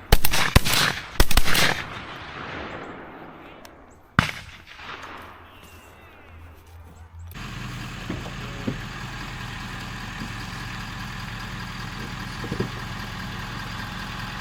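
Shotgun blasts at a dove hunt: a quick volley of three or four shots in the first two seconds, each ringing out, then a single shot about four seconds in. From about seven seconds in, a steady hum takes over.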